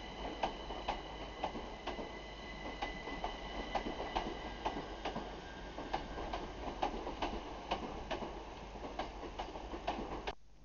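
A train running along the platform road, its wheels clicking over rail joints two or three times a second over a steady rumble, with a thin steady whine. The sound cuts off suddenly near the end.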